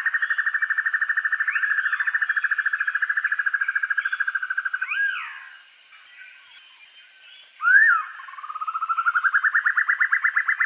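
Black-and-yellow broadbill song: a long, fast, even trill that fades out about halfway through, with sharp rising-and-falling whistled notes over it. A loud whistled note comes just before the trill starts again near the end, swelling and rising in pitch.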